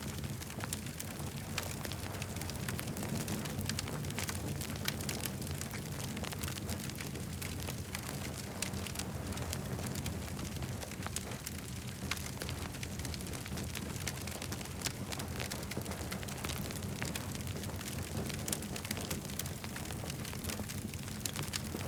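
Campfire burning, a steady low rumble of flames with frequent sharp crackles and pops of the burning wood.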